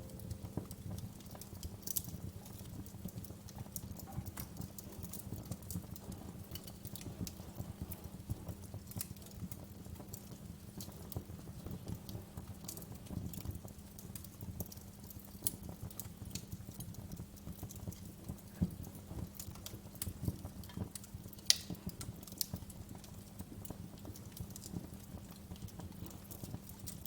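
Wood fire crackling: a low, steady rumble of flames with irregular pops and snaps scattered throughout, a few sharper pops about three-quarters of the way through.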